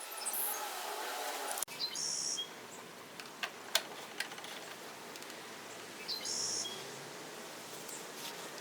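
Faint outdoor background with birds chirping twice in short high bursts, and a few light clicks in between.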